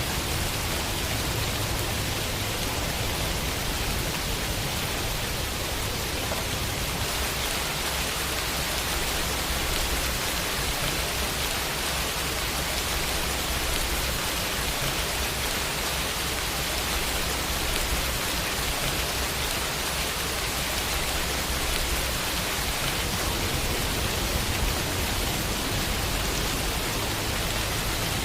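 Steady rain falling, pattering on a window: an even, unbroken hiss with a low rumble underneath.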